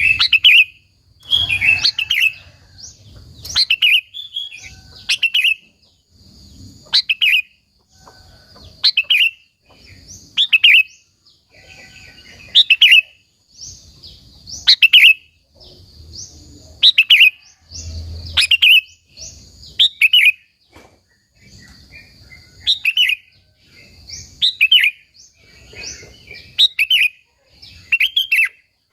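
Sooty-headed bulbul (kutilang) singing: short, loud, bubbly whistled phrases repeated about every one to two seconds.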